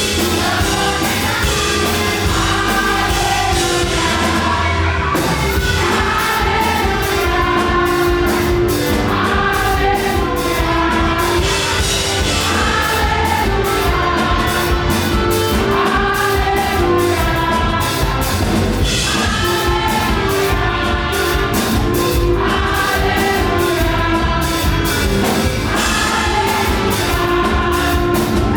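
Live up-tempo gospel praise music: a group of singers repeating short sung phrases over a band with a driving drum beat.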